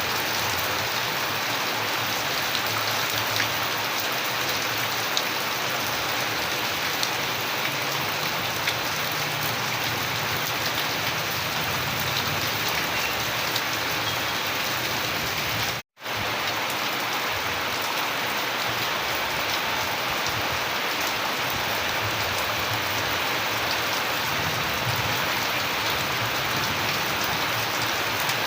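Steady rain falling, an even hiss with scattered sharper drop hits. About halfway through the sound cuts out for a split second, then comes straight back.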